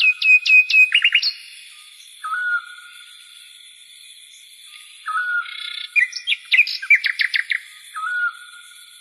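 A songbird singing: short whistled notes and quick trills of falling notes, in bursts in the first second and a half, briefly at about two and a half seconds, and again from about five seconds in.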